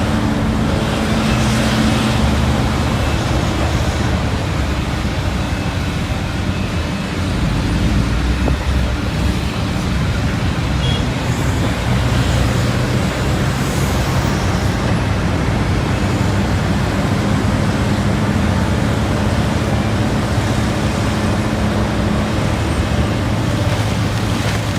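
Heavy diesel machinery running steadily: mining excavators and dump trucks with their large engines at work, a continuous low engine hum under a broad mechanical noise.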